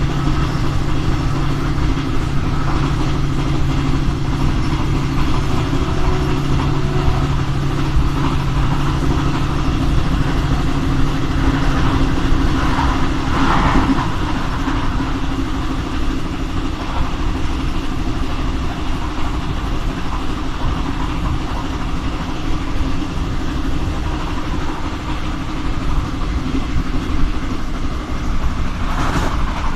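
Diesel-hauled passenger train running steadily on the rails: a continuous run of rolling and engine noise. A low engine hum drops away about twelve seconds in, with a brief rise in rattle a moment later.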